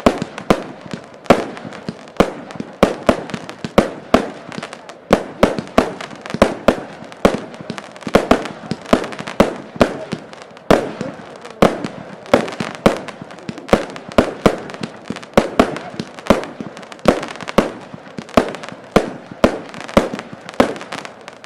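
Z39 Ruby consumer firework battery firing a long, steady string of sharp bangs, about one to two a second, each trailing off briefly.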